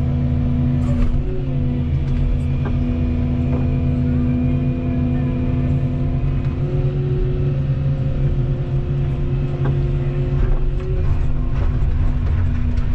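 Volvo 235EL excavator running steadily under work, its diesel hum overlaid by a hydraulic whine that steps up and down in pitch as the hydraulics are worked, with a few faint knocks.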